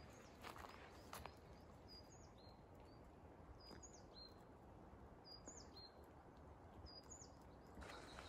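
Faint, high bird chirps: a small bird repeating a short chirp phrase four times, about every second and a half. A couple of soft footsteps on a trail in the first second or so.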